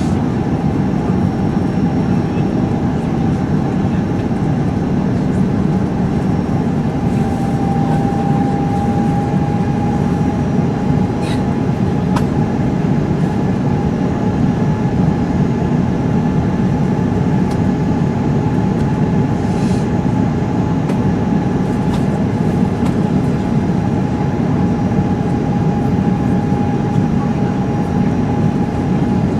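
Steady loud drone of an Airbus A330-300 heard inside the passenger cabin on approach, engine and airflow noise with a thin steady whine over it.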